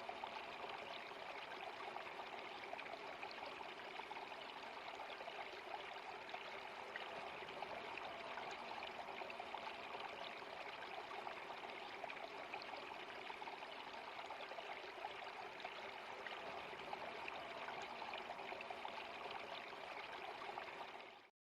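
Steady rushing of flowing water, like a small stream, with no change in intensity. It cuts off suddenly near the end.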